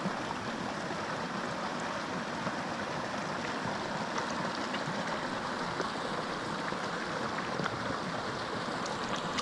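Small mountain creek rushing steadily over rocks.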